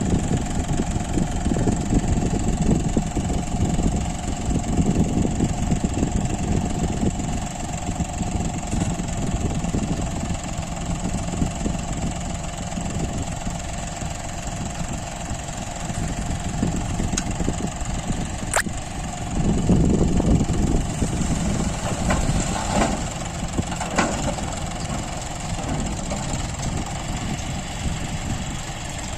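Heavy diesel engine running at low speed, growing louder twice: near the start and about twenty seconds in. A sharp click comes about eighteen seconds in, and a few knocks follow a few seconds later.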